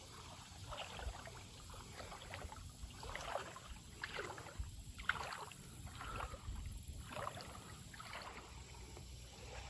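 Water splashing and sloshing in repeated irregular strokes, about one every half second to a second.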